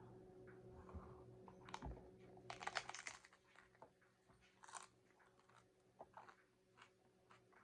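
Close-up crunching of a crisp taco shell being bitten and chewed, with a dense run of sharp crunches about two and a half seconds in and another crunch near five seconds.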